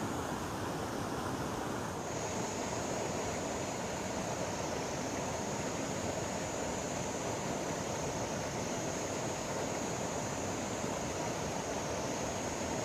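River water rushing steadily. About two seconds in, a steady high-pitched hiss joins it and holds.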